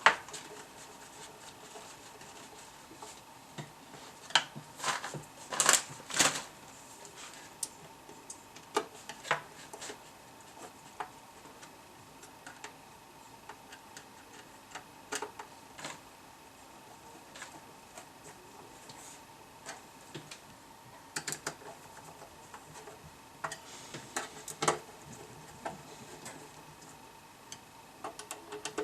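Irregular clicks, taps and small knocks of tools and parts being handled on a workbench, in bursts with quieter gaps, over a faint steady hum.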